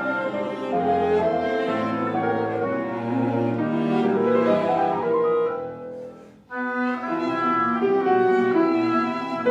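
Live classical chamber music led by cello and violin with piano. About six seconds in the music dies away to a brief pause, then the ensemble comes back in together.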